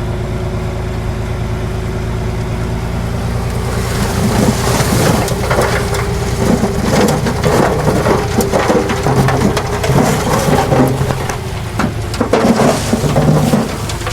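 Diesel earthmoving machinery running with a steady hum. About four seconds in, a loud, irregular rumbling and crunching of loose soil and rock begins and carries on, as a load of earth is dumped or pushed.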